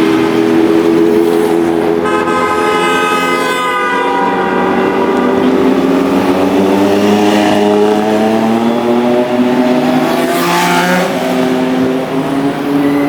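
Vehicle engines running steadily in road traffic, with a horn honking for about two seconds, starting about two seconds in.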